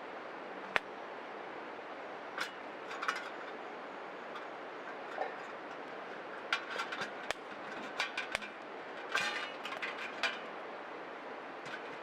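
Small wood fire crackling, with irregular sharp pops and snaps, busiest in the second half, over a steady background hiss.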